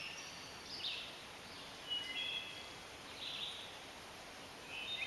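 Faint, short chirps and calls of wild birds, with a few brief hissy noises and quiet woodland background.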